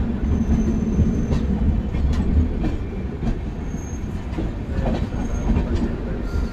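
Train coaches rolling along the track: a steady low rumble with irregular clicks of wheels over rail joints and a few brief, thin wheel squeals.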